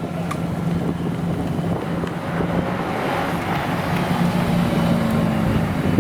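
Car engine running steadily at low revs, its note swelling slightly midway, with wind noise on the microphone.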